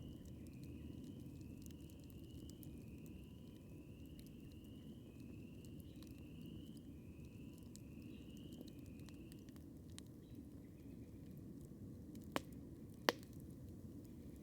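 Wood campfire burning with a low steady rumble and faint scattered crackles, then two sharp pops about a second apart near the end. Over the first two-thirds a faint high call from a distant animal repeats about once a second, each note dipping slightly in pitch.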